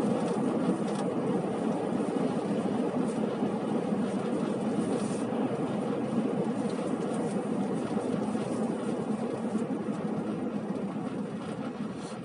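Strong wind blowing: a steady rushing noise that eases off near the end.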